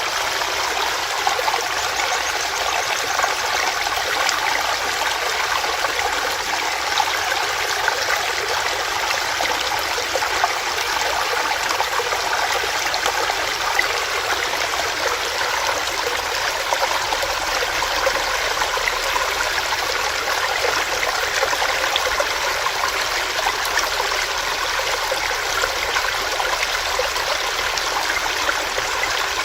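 Small stream running over rocks: a steady babbling of water with many small splashes and gurgles.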